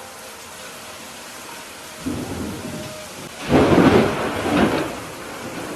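Thunder over steady rain: a rumble begins about two seconds in, then a louder crack of thunder about a second later rolls and fades out over the rain.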